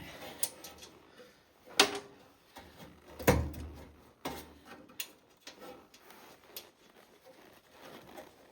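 Sharp knocks and clicks of hand tools and metal parts being handled while working at a garden tractor's side cover, with two louder knocks about two and three seconds in.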